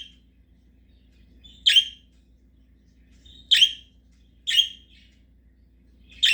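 Budgerigar giving short, sharp chirps, four of them spaced a second or two apart.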